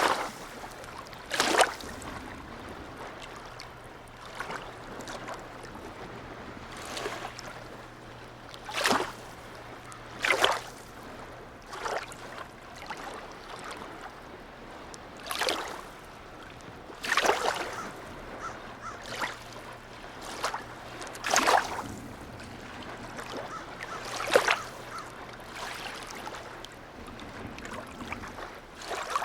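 Small harbour waves lapping and slapping against the water's edge in irregular splashes every second or few, over a steady wash of water. A faint low hum runs underneath until near the end.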